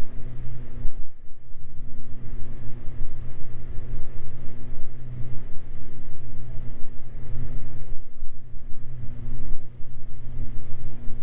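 Beechcraft G58 Baron's twin engines and propellers droning steadily in the cabin at reduced approach power on short final, a low hum with a higher tone that comes and goes. Twice the drone briefly thins out, about a second in and again near the end.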